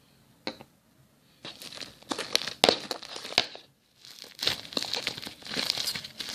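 Fluffy shaving-foam slime being worked and squeezed by hand, giving sticky crackling and popping in two stretches with a brief pause between them. It is still a little sticky, with more liquid borax just being worked in.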